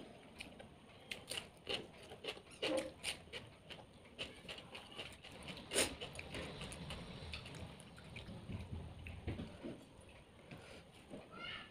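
Close-up eating sounds of a person chewing fried fish and salad: irregular wet clicks and lip smacks, with one sharper click about halfway through.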